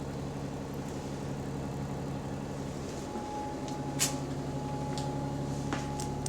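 Inside a moving single-deck bus: a steady drivetrain hum, joined about three seconds in by a thin, steady whine, the subtle differential noise the uploader remarks on. A couple of short clicks or rattles come near the end.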